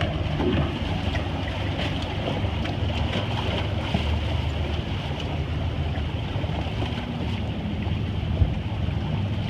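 Wind buffeting the microphone and water rushing along the hull of a sailboat under way, a steady rumble with one sharp knock about eight and a half seconds in.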